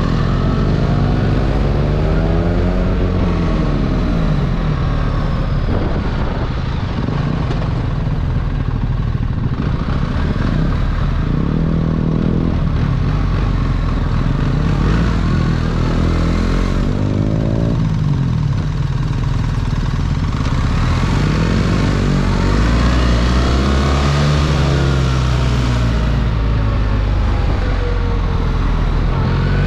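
BMW R 1300 GS motorcycle's boxer-twin engine running on the move, its revs rising and falling again and again as the bike accelerates and eases off.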